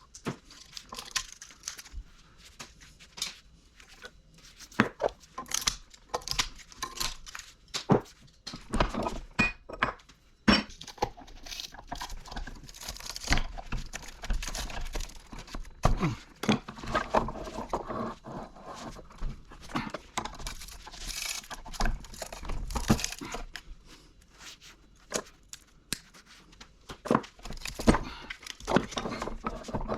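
Scrap copper motor windings being handled and pulled apart by hand: irregular clinks, knocks and scrapes with crinkling, tearing rustles in between.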